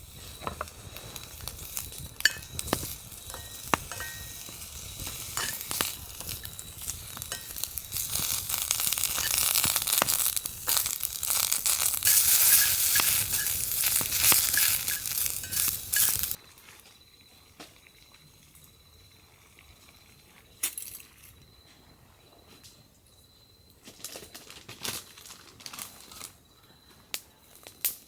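Dense crackling and sizzling with sharp clicks, growing louder, typical of food frying over a campfire. It cuts off suddenly about 16 seconds in. After that, crickets chirp steadily with a few soft clicks.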